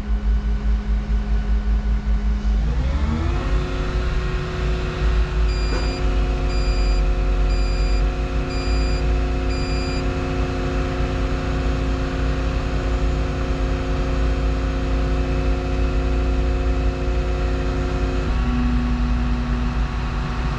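Volvo 235EL excavator's diesel engine idling, then revving up about three seconds in and holding high revs until near the end, when it drops back. A series of five short electronic beeps, about one a second, sounds partway through.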